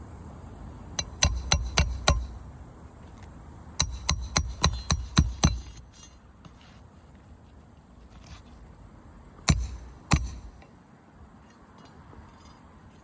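Hammer driving roofing nails into an asphalt shingle with sharp, ringing strikes: a run of about five blows, then about seven, then two more near the end.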